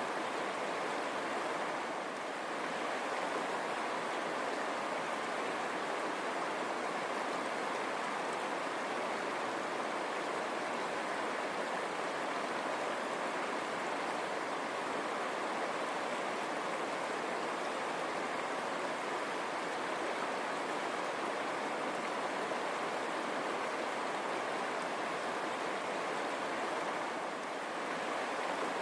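River water rushing over stones: a steady, even rush with no pauses.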